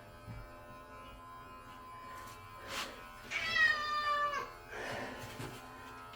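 A domestic cat being groomed gives one long meow about halfway through, sliding slightly down in pitch, over the faint steady hum of electric pet clippers.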